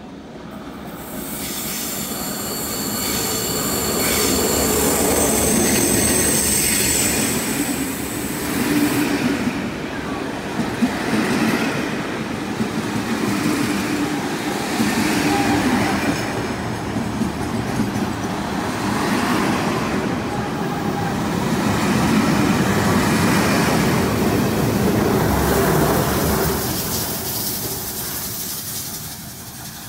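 Heritage passenger train passing close: the wheels click over the rail joints and squeal high, loudest in the first several seconds. The noise swells as the train comes in, stays loud with rises and dips as the carriages roll by, and fades near the end.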